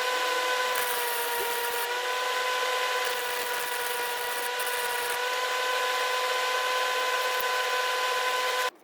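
Electric power tool running with a steady, high whine, which stops suddenly near the end.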